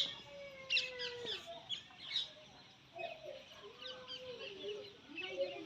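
Ringneck parrot calling and chattering: a run of short, sharp high squawks mixed with lower warbling, gliding notes.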